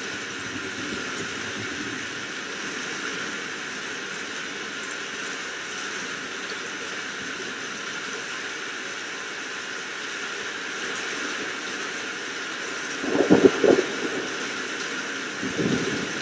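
Steady hiss of rain, with a cluster of loud sudden bursts about thirteen seconds in and a smaller one near the end.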